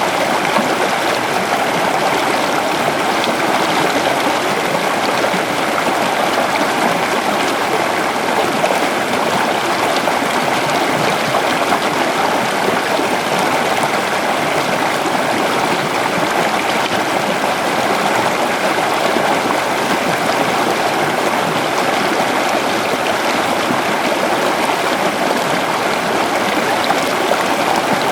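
River water flowing steadily over stones, a constant rushing and babbling.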